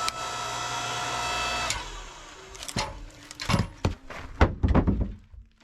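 A steady hum with several held tones for the first couple of seconds, then a run of sharp wooden knocks and clatters as firewood is chopped and split.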